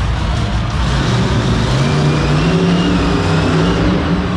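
Monster truck engine revving hard, its pitch rising about a second and a half in and holding high.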